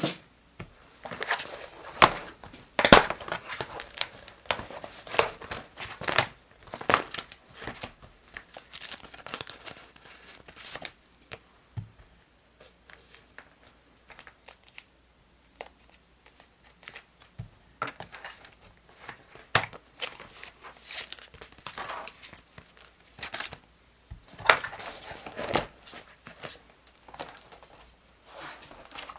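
Paper stationery being handled while decorating a diary: clusters of crinkling and rustling with short sharp crackles, thinning out for several seconds in the middle before picking up again.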